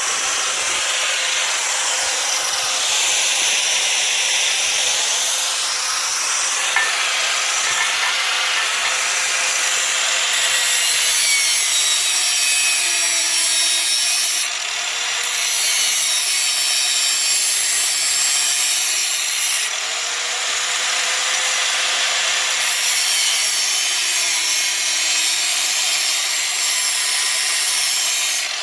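Electric angle grinder grinding steel, a steady hiss of the disc on the metal over the motor's whine. The whine sags in pitch several times as the grinder is pressed into the work, and the sound briefly eases twice, about halfway through and again a few seconds later.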